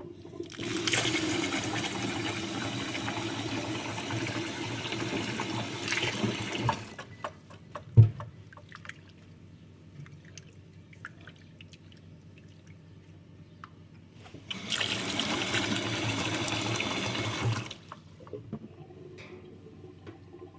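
Water running in two spells, about six seconds and then about three seconds, with a single sharp thump between them.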